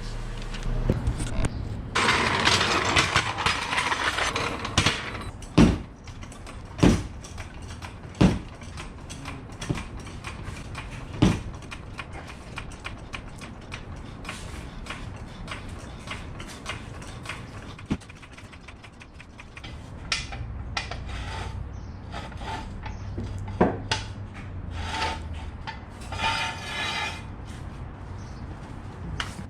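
Tools and metal parts being worked on a car: a few seconds of dense rattling early on, then scattered sharp clicks and knocks, with another short rattling patch near the end.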